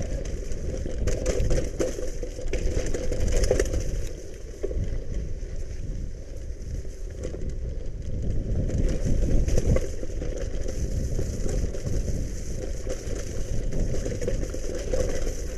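Bicycle gravel tyres rolling and crunching over a wet dirt and gravel trail, with frequent small clicks and rattles, and heavy wind rumble on the microphone.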